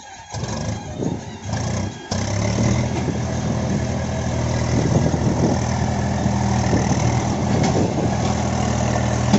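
Heavy diesel engine running, with a sudden change about two seconds in, after which it settles into a steady, even drone.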